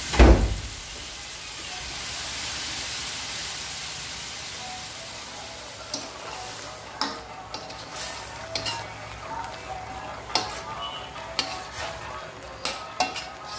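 Chicken pieces sizzling as they fry in a stainless steel wok, with a steady hiss after a low thump at the start. From about six seconds in, a spatula clicks and scrapes against the wok as the chicken stew in tomato sauce is stirred.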